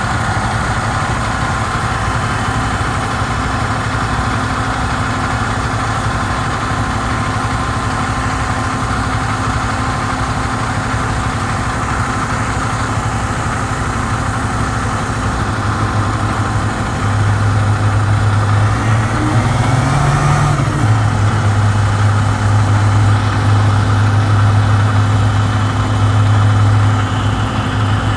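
Heavy truck engine idling, a steady low hum that grows louder about 17 seconds in, with a brief rise in pitch around 20 seconds.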